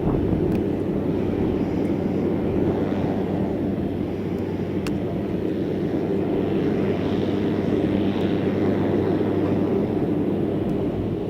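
Cessna 182RG's six-cylinder Lycoming piston engine and propeller running at a steady drone, with a couple of faint clicks.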